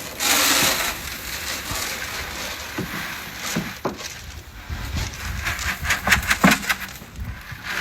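Farm animals eating their breakfast feed: steady rustling and crackling with many scattered clicks, and a few brief animal noises.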